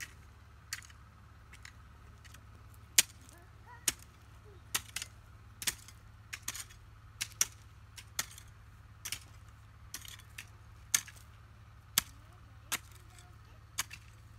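Sharp strikes of a hand tool, chopping at irregular intervals about once a second, some much louder than others, over a low steady hum.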